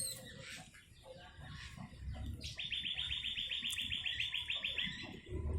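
Bar-winged prinia (ciblek) calling: scattered high chirps, then, about two and a half seconds in, a fast even trill of repeated notes, about nine a second, lasting some two and a half seconds.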